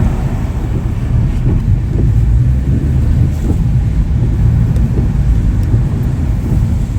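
Bugatti Chiron Sport's quad-turbo W16 engine running steadily at low revs, a deep, even rumble with no revving.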